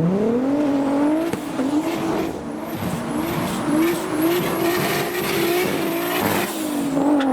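Toyota Chaser's engine revving hard. The pitch climbs in the first second, then bounces up and down in quick repeated revs, with some tyre squeal as the car is driven sideways.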